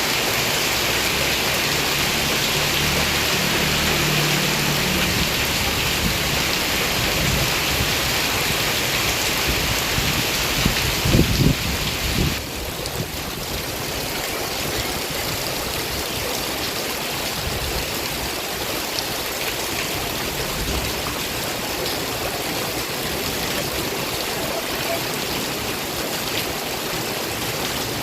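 Heavy rain pouring steadily, a dense hiss. About eleven seconds in comes a short run of louder low thumps, after which the rain sounds slightly softer and duller.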